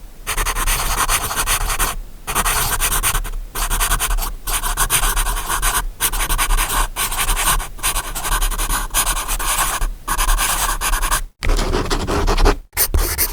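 Writing sound effect: scratchy handwriting strokes on a surface, each about a second long with short breaks between them. Near the end it cuts off twice, briefly, and the following strokes sound different.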